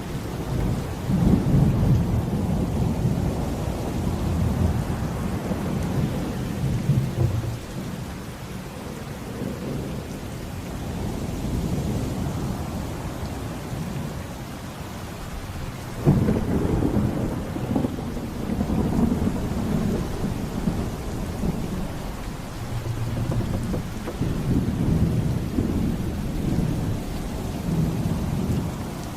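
Steady rain with rolling thunder. Low rumbles swell near the start, a sudden crack comes about halfway through and rolls on, and more rumbling builds near the end.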